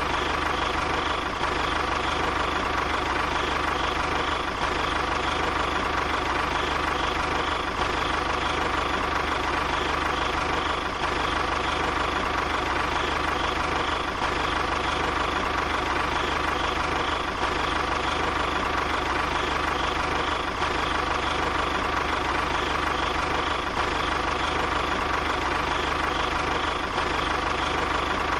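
A motor running steadily with an even, unchanging drone.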